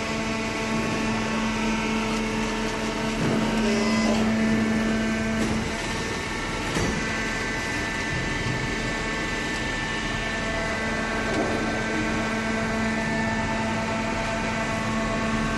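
Waste paper baler machine running: a steady mechanical hum with a few short knocks.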